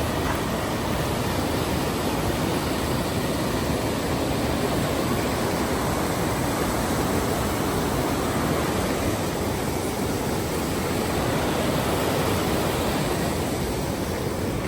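Steady, loud rushing noise that cuts off abruptly at the end.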